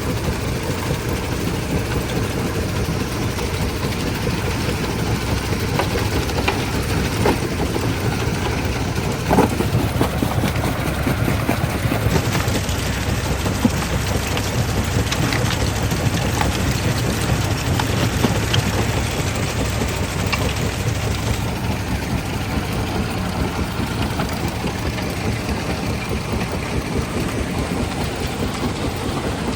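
Stone-crushing plant machinery running: a steady heavy mechanical drone with scattered sharp knocks of rock, one louder knock about nine seconds in.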